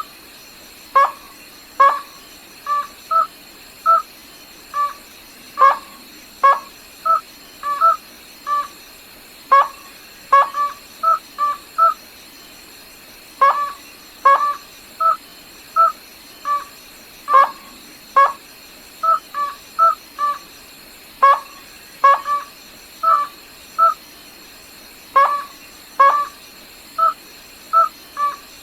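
Rail (the Vietnamese gà nước họng trắng) giving a long series of short, sharp call notes, about one to three a second, in runs broken by brief pauses. A faint steady high whine sits underneath.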